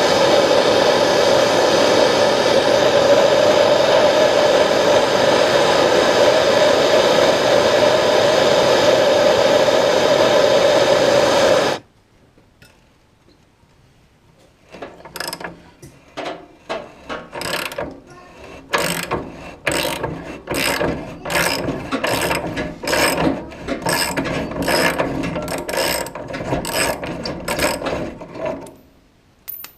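A loud, steady blowing noise with a strong hum cuts off suddenly about twelve seconds in. After a short pause, a hand ratchet wrench is worked in repeated, uneven clicking strokes for about fourteen seconds.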